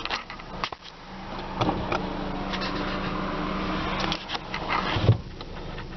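Sharp clicks of the 2008 Honda Accord's climate control buttons and knobs being worked, over a steady hum in the car's cabin. A steadier tone comes in about a second and a half in and stops about four seconds in.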